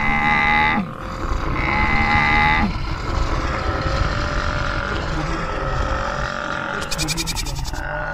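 Stampede sound effect: a low, dense rumble of many hooves with animal calls over it. Two held calls come in the first three seconds, and a rapidly pulsing call comes about seven seconds in.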